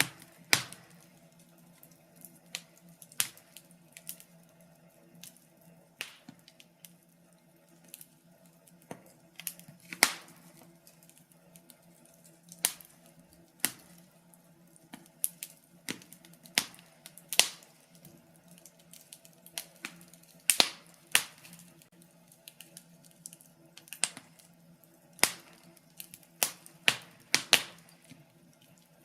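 Wood fire in a fireplace crackling: irregular sharp pops and snaps from the burning logs, several clustered together near the end, over a faint steady low hiss.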